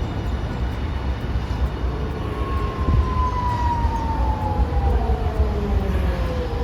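Hiroshima Electric Railway streetcar with a steady low rumble. From about two seconds in, its electric traction motor whine slides slowly and smoothly down in pitch as the tram brakes.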